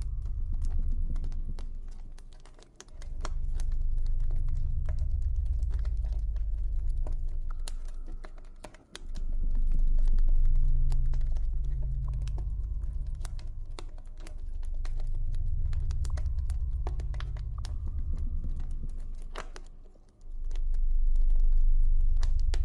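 Campfire crackling with irregular sharp pops over a deep, low ambient drone. The drone swells and fades in long waves and drops out briefly about three, nine and twenty seconds in.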